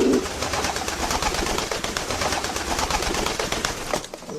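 A bird's cooing ends just after the start. A dense rustling, scratching noise with many small clicks follows, with only faint cooing under it.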